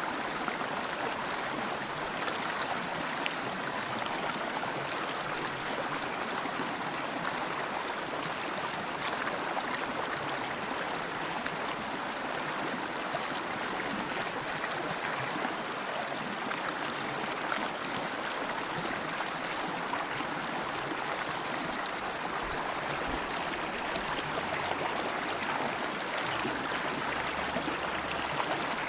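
River water flowing steadily over stones, an even rushing babble with small trickles in it.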